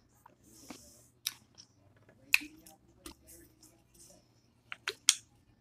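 A person chewing food with wet mouth sounds, with a few sharp clicks and smacks, two of them close together near the end.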